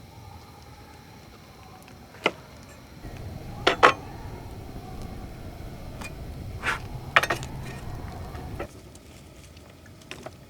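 Cookware and utensils clinking and knocking in camp cooking: about nine sharp separate clinks, some in quick pairs, over a low rumble that stops about two-thirds of the way in.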